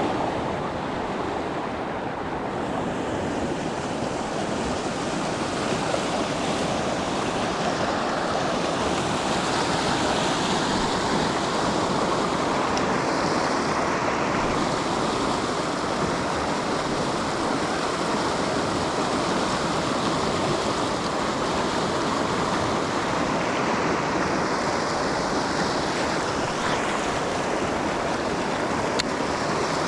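Steady rushing of river water flowing past, with no distinct splashes or breaks.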